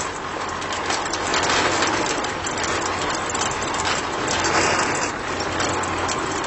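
A small motor running steadily with a dense gritty rattle of many small clicks over it.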